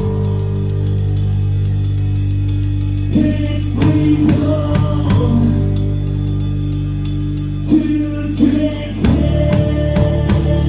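Rock band playing a song: drum kit with a fast, even hi-hat, guitar holding low notes, and a sung vocal line that comes in about three seconds in and again near the end.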